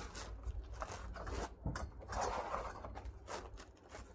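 Rummaging and handling of small objects: light rustling with scattered small clicks and knocks, over a low steady hum.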